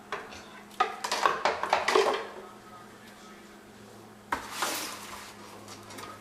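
Hard household objects clattering and knocking as a toddler pulls things out of a drawer. A quick flurry of knocks comes in the first two seconds, then one short scraping rattle about four seconds in.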